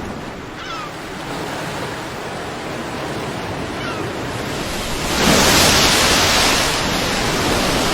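Ocean surf washing steadily, with a wave breaking louder about five seconds in.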